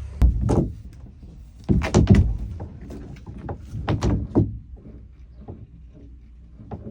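A series of irregular thuds and knocks, as tools and loose pieces are handled and moved about in a fiberglass boat hull. The loudest come just after the start and around two seconds in.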